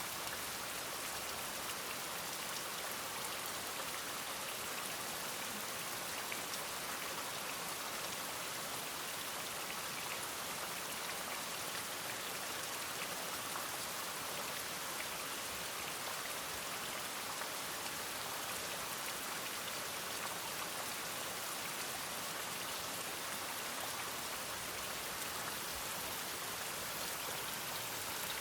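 Steady rain falling: an even hiss of drops that holds the same level throughout.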